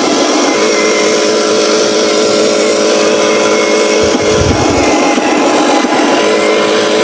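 Radio-controlled Scania 770S logging truck (Huina 1501) running, its motor and gearbox giving a steady mechanical whir. The sound turns rougher and noisier for a couple of seconds past the middle, then steadies again.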